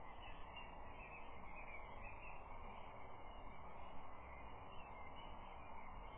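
Faint steady outdoor noise picked up by a nest camera's microphone, with faint chirping of distant small birds throughout.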